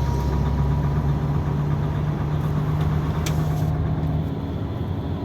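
Dongfeng truck's diesel engine running steadily with the knock that repair has not cured.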